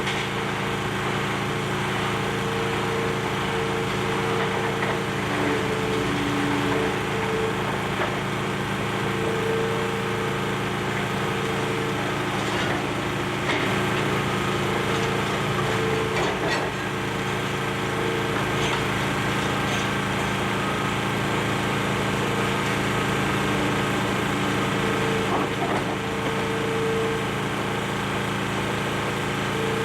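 Demolition excavator's diesel engine running steadily, with a higher tone that comes and goes and a few faint knocks.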